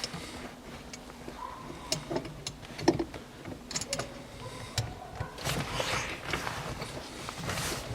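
Scattered light metallic clicks and knocks, with a couple of brief squeaks, as the pivot pin is worked into the freshly greased new bushings of a gear-shift lever support.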